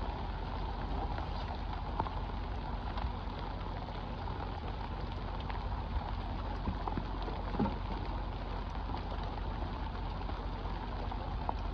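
Rain falling steadily on the river surface and the boat, an even hiss of drops with a few faint ticks, over a steady low rumble.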